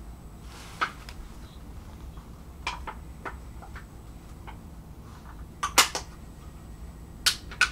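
Inside a commuter train carriage: a steady low rumble with scattered sharp clicks and knocks, the loudest a quick cluster about six seconds in and a pair near the end.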